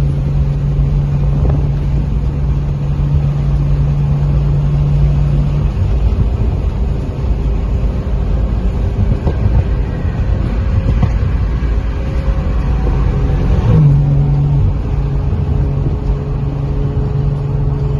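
Car engine and road rumble heard from inside a moving car while cruising. A steady engine drone runs for about the first six seconds, drops away, and comes back with a small step up a few seconds before the end.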